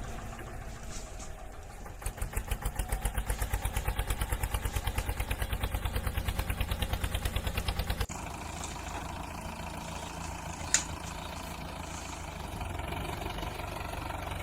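Chugging tractor-engine sound of a toy tractor as it is driven, a fast even pulsing of about ten beats a second. About eight seconds in it changes abruptly to a steadier running sound, with a single sharp click near eleven seconds.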